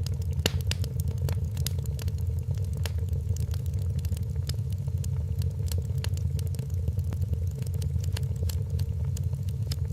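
Wood fire crackling in a fireplace, with many small sharp pops at irregular intervals over a steady low rumble.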